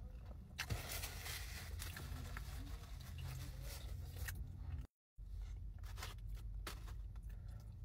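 A person chewing a mouthful of cheeseburger with lettuce, with soft crunches and wet mouth sounds. The crackling is densest in the first few seconds, there are a few sharp clicks later, and the sound drops out completely for a moment about five seconds in.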